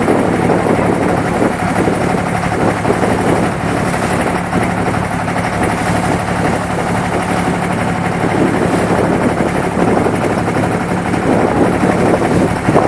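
Boat engine running steadily: a constant low hum under a rough wash of engine and water noise.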